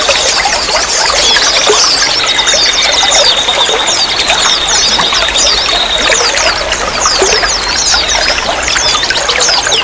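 Trickling, running water with many small birds chirping high over it in quick short notes. A thin, steady high note holds for a few seconds in the middle.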